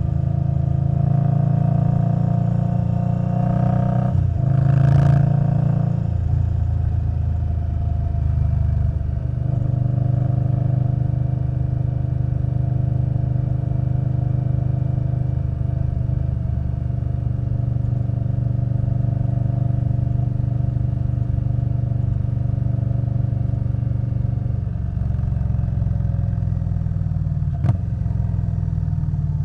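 2021 Indian Scout Bobber Twenty's liquid-cooled V-twin running steadily through a Vance & Hines Twin Slash exhaust. A brief rushing swell comes about five seconds in, and a sharp click near the end.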